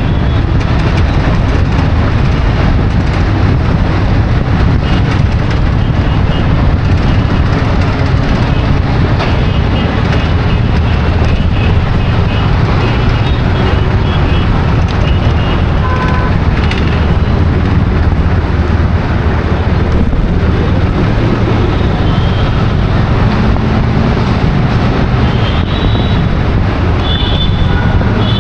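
Steady, loud road-traffic rumble, as heard from among moving vehicles. Brief high tones come about halfway through and several more near the end.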